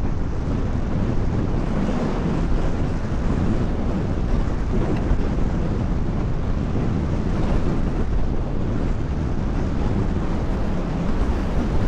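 Wind buffeting the microphone of a road bike ridden at speed in its highest gear, a steady low rushing noise.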